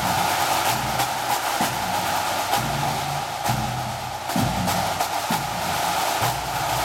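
Pipe band drum corps playing: rapid snare drum strokes over tenor and bass drums.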